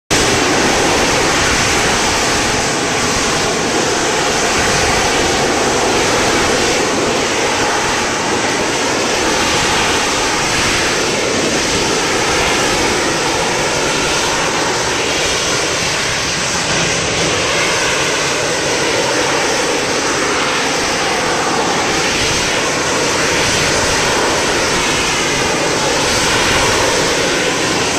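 AV-8B Harrier jump jet's Rolls-Royce Pegasus turbofan running loud and steady, its pitch wavering slowly up and down.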